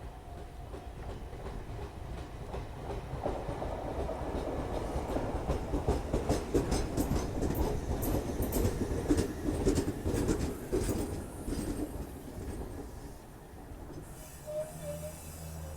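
Jōshin Electric Railway 500 series electric train (a former Seibu 101 series) pulling into a station: wheel rumble and clickety-clack over rail joints, growing louder through the middle and then easing off as it slows. A brief squeal near the end.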